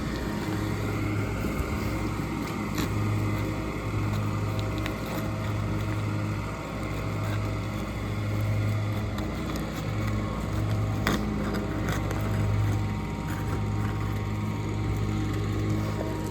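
A small engine or motor running steadily, its hum swelling and fading slowly. A few short sharp clicks sound over it, the loudest about eleven seconds in.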